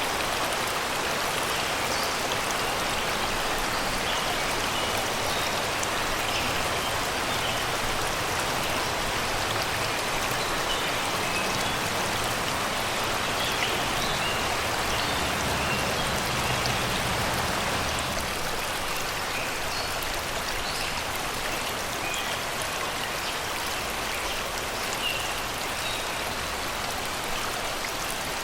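Shallow river rushing and babbling steadily over rocks and stones, with faint bird chirps scattered through.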